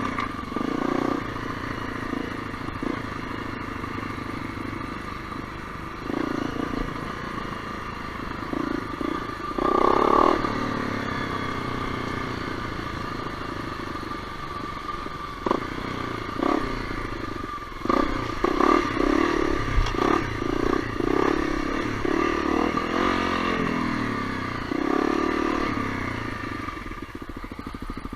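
Honda CRF250L's single-cylinder four-stroke engine running under way on a trail, the throttle opening and closing: one strong rev about ten seconds in, a run of short blips in the second half and another rise near the end.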